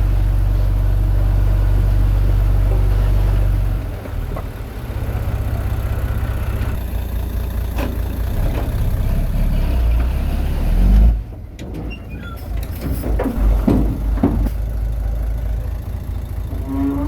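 Heavy diesel engine of earthmoving machinery running with a deep, steady rumble. The rumble drops about four seconds in and runs less evenly, surges loudly near eleven seconds, then cuts off suddenly into a more uneven engine sound.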